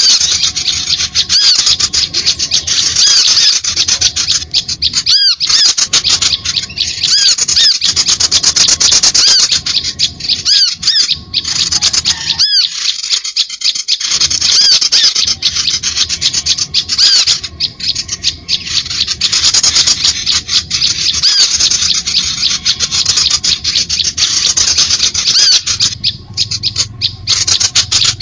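A bird-lure recording: loud, continuous chattering of many small birds calling at once, with rapid high, arched notes that overlap thickly. The chatter dips briefly twice.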